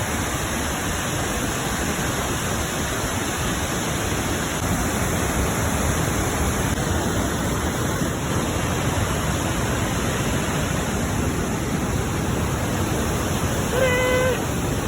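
Large cascading waterfall: the steady, even rush of falling water. A brief high-pitched call sounds near the end.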